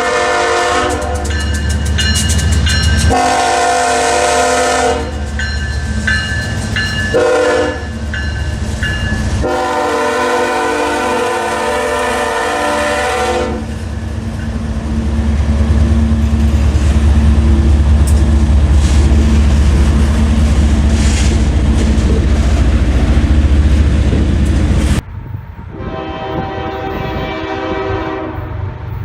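Canadian Pacific diesel locomotive's multi-tone air horn sounding the grade-crossing signal: long, long, short, long. The horn is followed by a loud, low, steady rumble as the train goes by. After an abrupt cut near the end, a horn sounds again.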